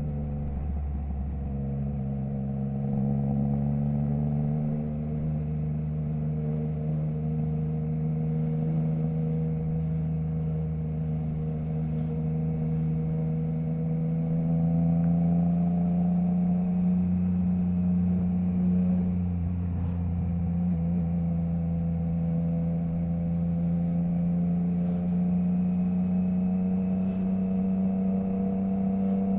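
Triumph Trident 660's inline three-cylinder engine through a Zard stainless full exhaust with the baffle removed, running under way at steady part throttle. The pitch dips briefly about a second in, then the revs climb slowly.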